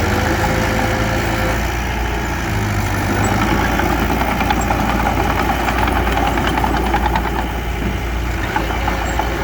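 Heavy diesel engine of earthmoving equipment running steadily, with a low rumble and a light rattle.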